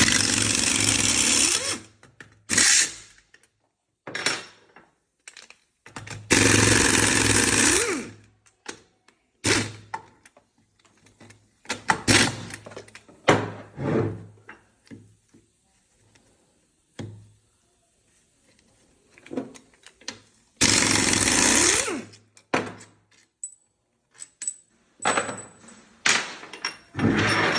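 A power tool unbolting a Fiat Siena gearbox during teardown runs in three bursts of about two seconds each: at the start, about six seconds in, and about twenty-one seconds in. Between the bursts come short clanks and knocks of metal parts and tools being handled.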